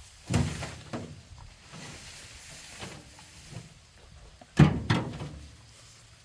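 Two loud thumps, one about a third of a second in and one a little past the middle, each followed by a smaller knock.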